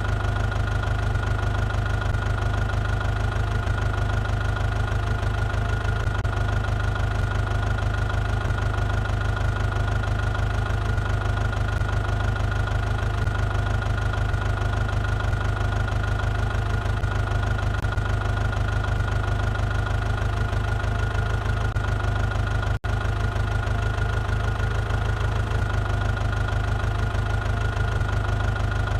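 John Deere tractor's diesel engine idling steadily, with a low even chug and a steady high whine over it. The sound cuts out for an instant once, about 23 seconds in.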